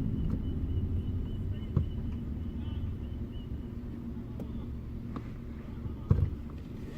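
Car engine with a modified exhaust running steadily without revving, slowly getting quieter, with a few faint clicks.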